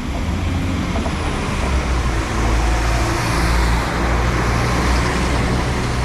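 Diesel passenger train's engine running steadily as it moves off, building slightly in the middle, with a faint high whine above it.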